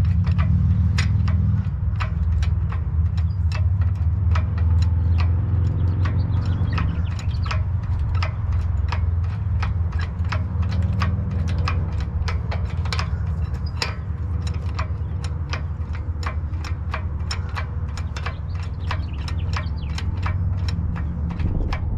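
A stream of sharp, irregular metallic clicks, a few each second, over a steady low rumble, as the engine is lifted out of the car.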